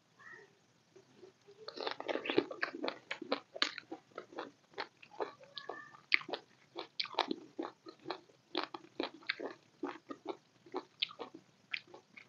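Close-miked chewing of a mouthful of chicken biryani: an irregular run of sharp mouth clicks and smacks, several a second, starting about two seconds in.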